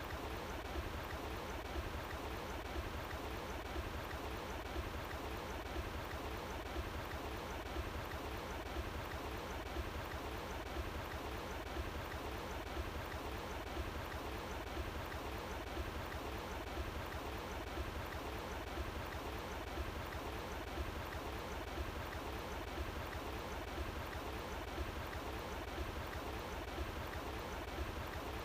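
Running water flowing steadily: an even, unbroken rush with a strong low rumble beneath it.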